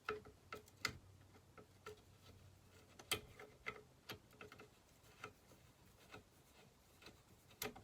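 Light, irregular clicks and taps of small metal chainsaw parts and hand tools being handled during carburetor reassembly, about ten in all, with quiet between them.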